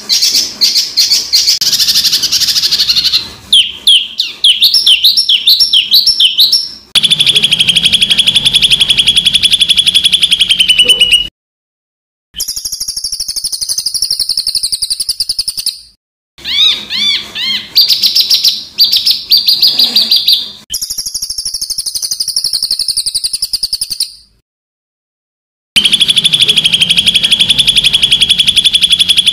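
Spliced songbird recordings for song training: fast trills of rapid-fire harsh notes and runs of repeated sweeping notes, high-pitched, each clip starting and stopping abruptly, with two short gaps of silence between clips.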